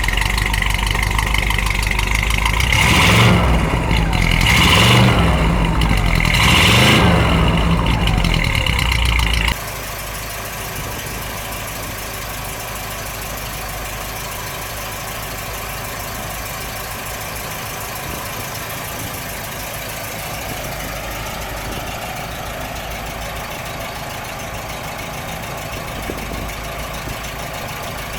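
1957 Cadillac's 365 cubic-inch V8 with an Edelbrock carburetor, revved three times in quick succession. At about nine and a half seconds it drops abruptly to a steady idle for the rest of the time.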